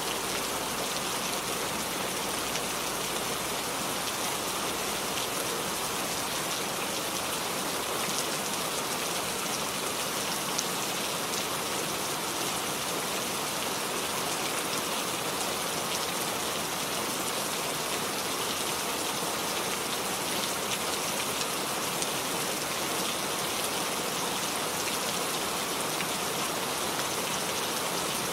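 Steady rain falling, a continuous dense hiss of many drops with fine individual drop ticks.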